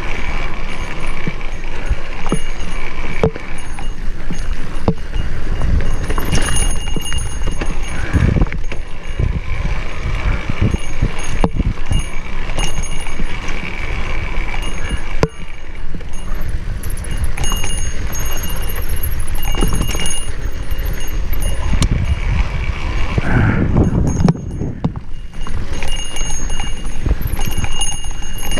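Wind buffeting the microphone over the rattle and knocks of a mountain bike descending rough dirt singletrack.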